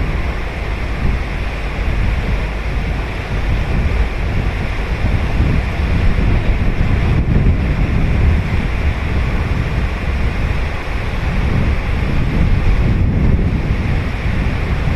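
Ocean surf breaking and washing up a beach in a steady, swelling rush, with wind buffeting the microphone as a low rumble underneath.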